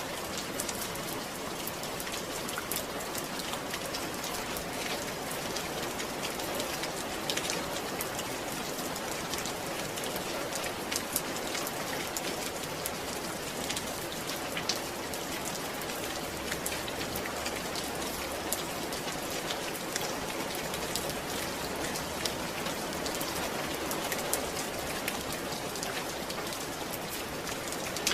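Steady rain falling, with many individual drops ticking and pattering on a surface.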